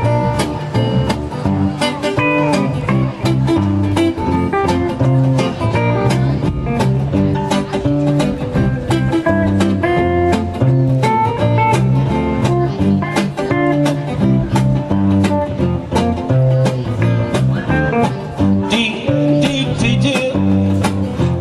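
Live band playing an instrumental intro led by guitar, with bass and drums keeping a steady beat.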